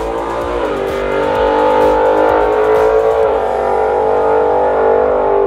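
1970 Dodge Challenger T/A's 340 cubic inch V8 with three two-barrel carburetors, running at full throttle as the car accelerates away. Its pitch drops briefly and climbs again twice, about half a second and three seconds in.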